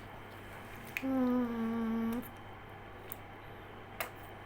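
A person's closed-mouth 'mmm' hum while eating a jelly candy, held for about a second and sinking slightly in pitch. A few small sharp clicks come before and after it.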